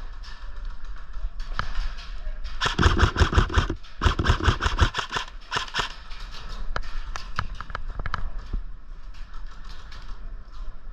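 Airsoft guns firing: scattered single shots, with two rapid bursts of automatic fire about three and four and a half seconds in.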